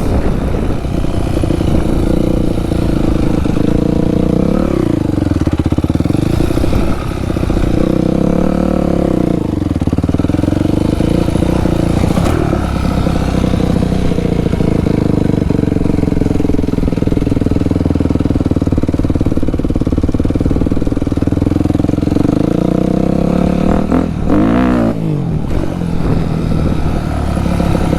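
Dirt bike engine running under way, its pitch rising and falling with the throttle, with a quick rev up and back down near the end.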